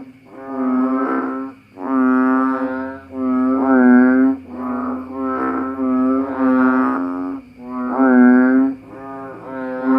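Frog calls repeated about once a second: low, droning honks, each under a second long, some louder than others.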